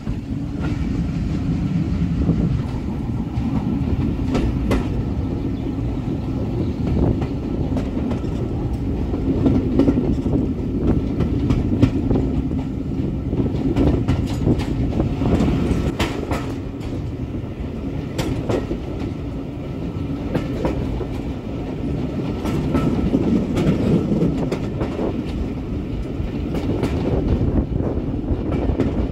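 Train running along the track: a steady low rumble with the clickety-clack of wheels passing over rail joints, irregular sharp clicks scattered through it.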